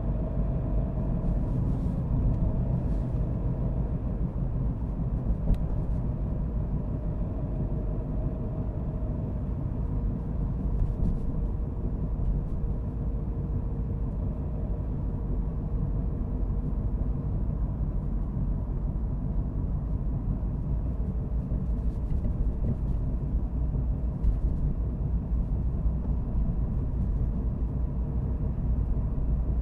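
A car being driven at a steady pace: an even low rumble of engine and road noise with a faint hum, broken by a few faint ticks.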